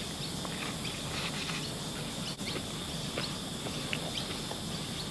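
A bite into a crispy chicken schnitzel burger at the start, then chewing with faint, irregular crunches, over a steady outdoor background of insects.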